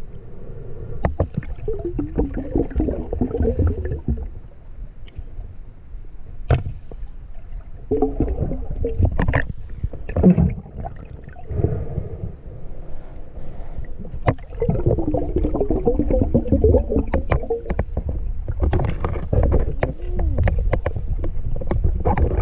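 Water sloshing and gurgling against the camera as a snorkeler moves through a stream pool, with rounds of bubbling and many small knocks over a constant low rumble.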